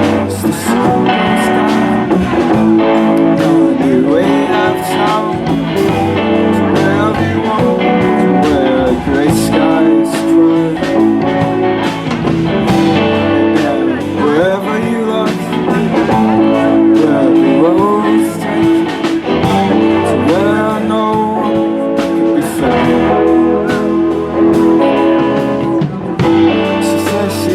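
Live band playing the instrumental opening of a song, led by guitar, with bass and drums underneath.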